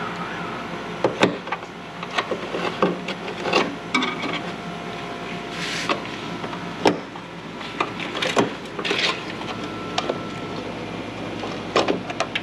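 Irregular clicks, knocks and light scraping of the plastic cowl panel and its clips being worked loose by hand, over a steady low hum.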